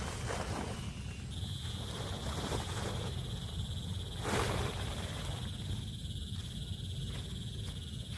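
An insect trilling steadily at a high pitch, starting about a second in, over a constant low rumble, with a few brief swishes.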